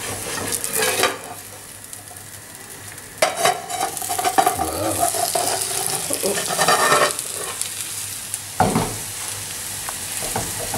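Chickpea-flour and zucchini omelette sizzling in an oiled frying pan as it is turned using an aluminium lid and slid back into the pan, with several knocks and clatters of lid and pan. The sizzle grows louder about halfway through, then a wooden spoon works the pan.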